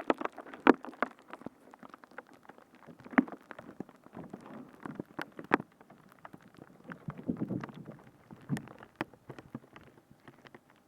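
Close-miked ASMR trigger sounds on a binaural microphone: irregular sticky clicks, pops and crackles with softer rustling between them. The sharpest pops come under a second in, near three seconds and near five and a half seconds.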